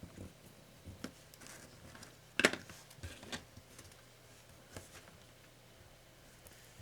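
Scattered small clicks and taps of hands handling laptop parts and tools during disassembly, the sharpest click about two and a half seconds in.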